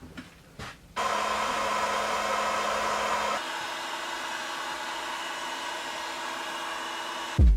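A machine running with a steady rushing noise and hum, starting abruptly about a second in and shifting to a quieter, lower-pitched tone partway through. Music with a thumping beat starts at the very end.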